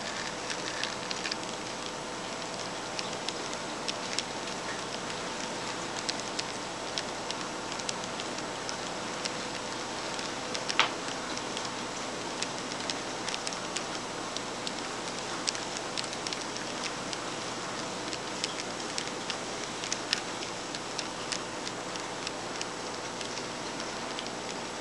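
N scale model train rolling slowly on its track: many irregular light clicks of the cars' wheels over rail joints over a steady hum from the locomotive motor, with one sharper click about eleven seconds in.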